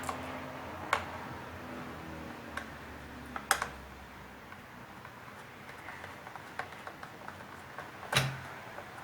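Scattered clicks and knocks of a plastic electric heater casing and parts being handled during disassembly, with three louder knocks about a second in, at three and a half seconds and near the end. A faint low hum fades out about halfway.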